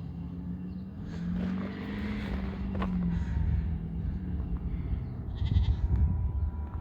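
2007 Duramax LBZ 6.6-litre V8 turbodiesel running with its exhaust removed. Its note rises and falls about one to three seconds in, and a louder low rumble builds near the end.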